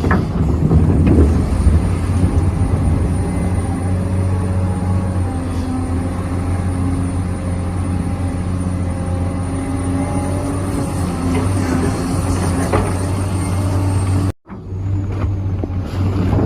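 Radio-controlled model excavator's motor running with a steady hum and a thin high whine, with scraping knocks near the start and again about 13 seconds in. The sound cuts out for a split second about 14 seconds in.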